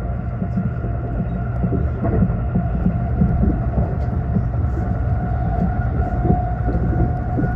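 Limited express train running at speed, heard from inside the passenger cabin: a steady low rumble of wheels on the rails with a steady whine over it, the whine a little stronger about six seconds in.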